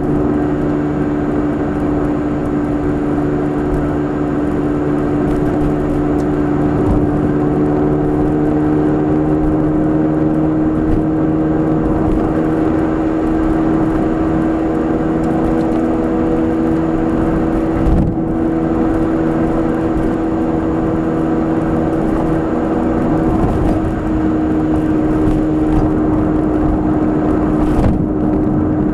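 Nissan March 12SR's four-cylinder engine through a Kakimoto aftermarket exhaust, droning steadily at cruising speed as heard inside the cabin, its pitch creeping slightly upward, over road and tyre noise.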